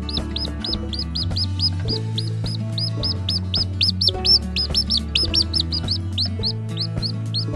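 Baby chicks peeping rapidly and continuously, about five high, short peeps a second, over background music.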